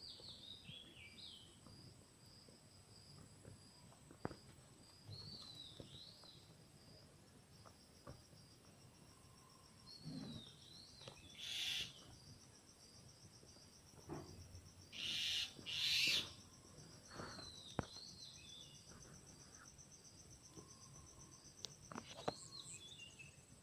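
Birds calling in short phrases of high, down-slurred notes every few seconds over a steady high insect trill. A few brief hissing noises stand out as the loudest sounds, about halfway through.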